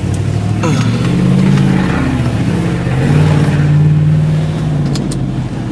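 Chevy pickup truck's engine running under acceleration while driving, heard from inside the cab, its note swelling twice.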